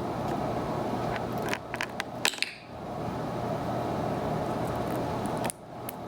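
A few light clicks and clinks of small hard objects knocked about on a tabletop, bunched about one and a half to two and a half seconds in, over a steady room hum.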